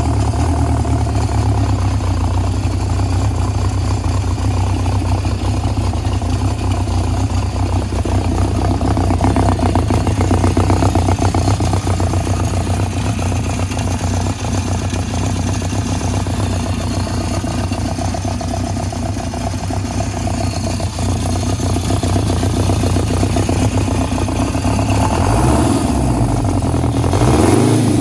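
1977 Honda CB750K's air-cooled inline-four motorcycle engine running steadily at a cold fast idle on full choke, just after a cold start. Near the end the engine note shifts and rises briefly.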